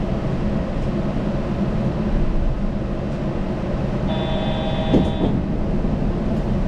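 Yurikamome rubber-tyred automated guideway train running: a steady low rumble of tyres and drive on the guideway. About four seconds in, a steady tone of several pitches sounds for about a second, with a brief sharp knock near its end.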